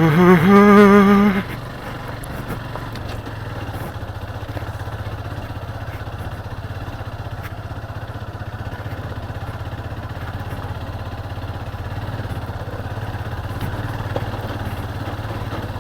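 Motorcycle engine running steadily at an even pace while the bike is ridden off-road, a constant low hum. In the first second or so, a louder pitched sound rises and then holds briefly before cutting off.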